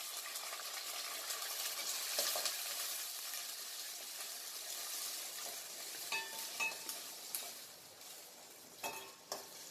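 Chopped onion and curry leaves sizzling in hot oil in a stainless steel kadai, stirred with a steel ladle. The sizzle eases off in the second half, and the ladle clinks against the pan a few times.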